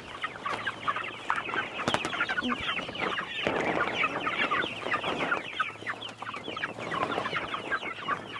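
A flock of chickens clucking and chattering continuously.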